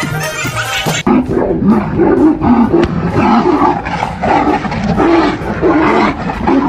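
Electronic music stops abruptly about a second in, followed by loud, repeated animal growls and roars from a fight.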